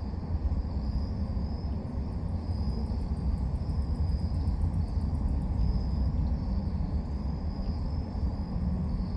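Night-time outdoor ambience: a steady low rumble with insects chirping in repeated high pulses, and a quick run of faint ticking a couple of seconds in.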